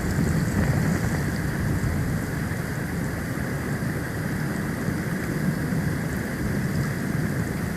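Storm wind buffeting an outdoor nest-cam microphone in a snowstorm: a steady, gusting rumble with no pauses.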